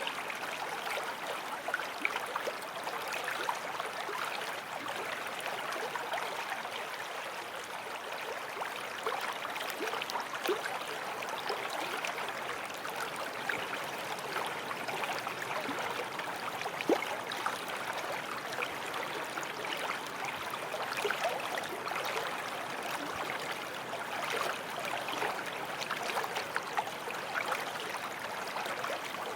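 Forest stream flowing steadily over stones, a continuous rush of water with small splashes and gurgles.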